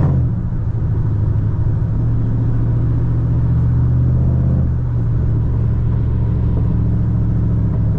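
Straight-piped 2010 Chevrolet Camaro SS's 6.2-litre V8 running with a steady, loud low drone, its note shifting slightly about five seconds in.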